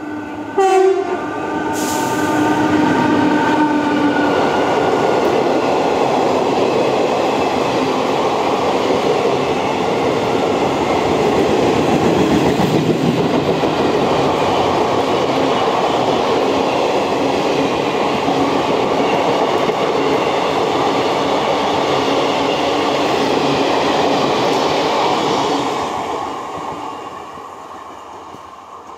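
Electric-locomotive-hauled passenger train passing through at speed. Its horn sounds as it comes up, dropping in pitch about a second in as the locomotive goes by. The coaches then rumble past loudly on the rails for about twenty seconds before the sound fades away near the end.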